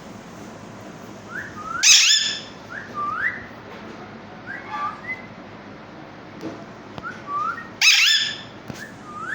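Alexandrine parakeet giving short rising whistles, broken twice by a loud, harsh screech, about two seconds in and again near the end.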